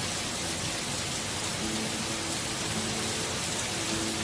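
Heavy rain pouring steadily onto tree foliage: a dense, even hiss.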